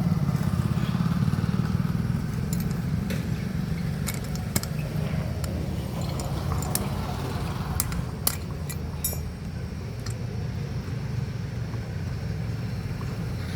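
Small motorcycle engine running at a steady idle, with scattered light metallic clicks and taps over it.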